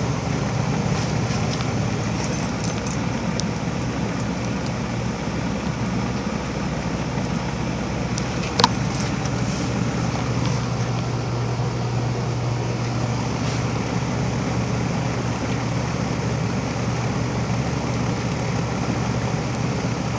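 2005 Amana 4-ton R-22 heat pump running steadily in its defrost cycle, a constant low hum with a wash of noise over it. A single sharp click about halfway through.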